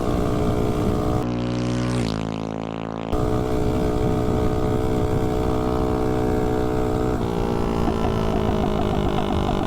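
Tillotson 212 single-cylinder four-stroke mini bike engine, running on VP Racing nitro fuel, held at steady high revs. About a second in, its pitch falls and it goes quieter, then it cuts back to full revs about three seconds in and holds steady.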